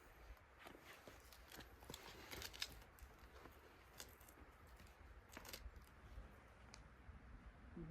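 Faint, scattered scuffs and scrapes of a climber's shoes and hands on the rock, a few sharper clicks among them, over a low rumble close to silence.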